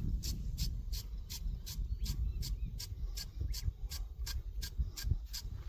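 An insect chirping in short high-pitched pulses at a steady rate of about three a second, over a low rumble.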